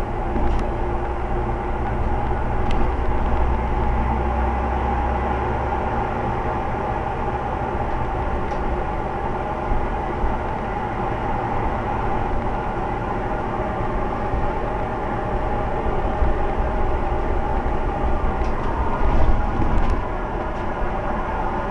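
Scania Omnicity single-deck bus running steadily, a continuous engine and drive noise with a deep low rumble that is heavier for the first several seconds and then eases.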